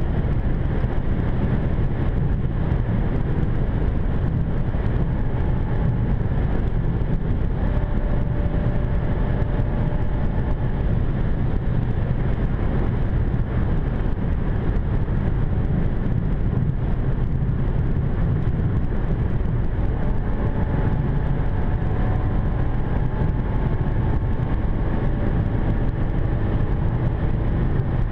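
Steady low rumble of road, tyre and engine noise heard inside the cabin of a BMW 550i F10 with its twin-turbo V8, cruising at speed; a faint engine tone climbs slowly in the second half.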